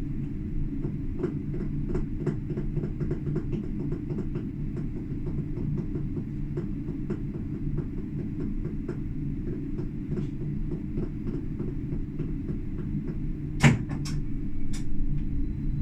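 Tram running along the track, heard from the cab: a steady low rumble with rapid, irregular clicking, and a sharp clank near the end, followed by a couple of lighter knocks.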